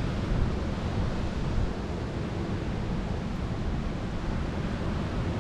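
Steady rushing noise of heavy rain pouring down outside a small shed, with a low, uneven rumble beneath it.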